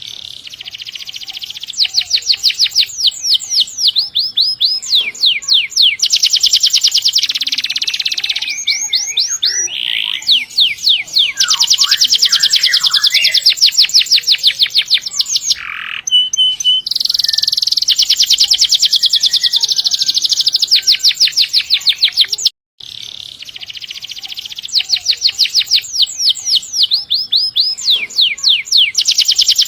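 Domestic canary singing vigorously in long rolls: trains of rapid, high, repeated notes run on for seconds at a time with only short breaks. The sound cuts out completely for a moment about three quarters through.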